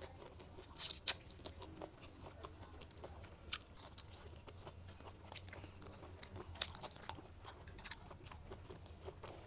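Ripe jackfruit flesh being bitten and chewed: irregular soft mouth clicks and crunches, with a couple of louder bites about a second in.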